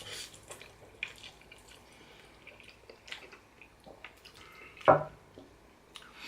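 Close-up mouth sounds of someone eating instant noodles: small wet smacks, slurps and chewing clicks, with a louder one about five seconds in.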